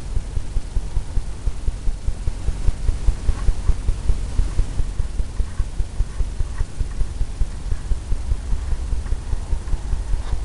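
A paintbrush dabbing and tapping oil paint onto a stretched canvas, a rapid run of low, dull thuds at about four a second.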